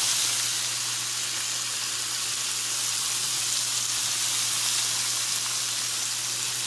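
Seasoned shrimp sizzling in a tablespoon or so of hot oil in a nonstick pan, a steady frying hiss as they sear to pick up a char on each side.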